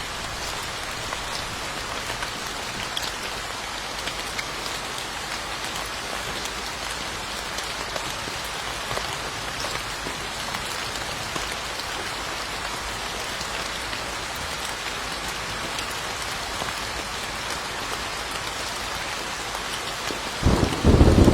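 Steady rain falling, an even hiss with scattered individual drop ticks. Near the end a loud, low rumble of thunder breaks in.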